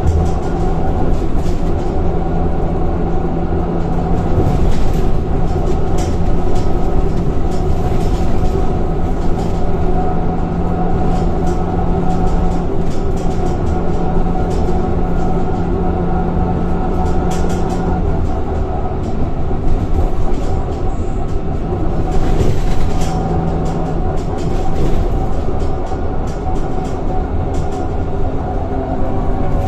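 Scania K230 bus heard from inside while under way: its five-cylinder diesel engine and ZF automatic gearbox running with a steady hum, over road noise and body rattles. The hum drops away about eighteen seconds in and comes back briefly a few seconds later.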